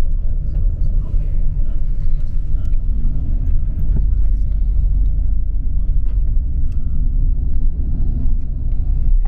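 Steady low rumble of engine and road noise heard from inside a moving tour coach.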